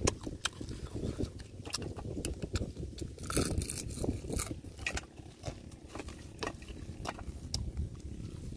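A person biting and chewing shellfish close to the microphone: irregular crisp crunches and wet mouth clicks, with a louder crunch about three and a half seconds in.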